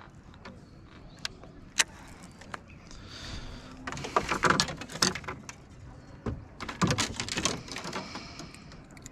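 Clicks, knocks and rattling from gear being handled in a plastic canoe: scattered single clicks, with two busier stretches of rattling about four and seven seconds in.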